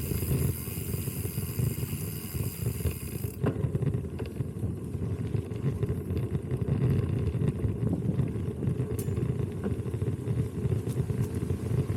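Wind buffeting the microphone of a camera riding on a mountain bike: a heavy, uneven rumble, with a few light knocks and rattles from the bike over the ground. A steady high hiss cuts out about three seconds in.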